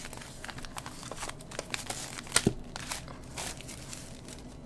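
Paper and plastic crinkling and rustling as an album's contents are handled, full of small irregular clicks, with two sharper snaps about two and a half seconds in.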